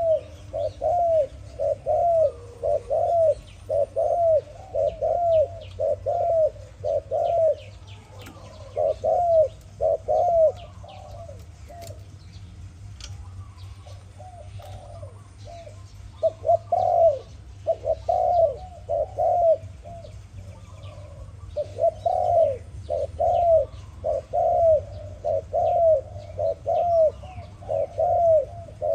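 A dove cooing in runs of quick, repeated arched notes, about two a second, with a pause midway. Fainter chirps of other birds and a steady low hum sit behind it.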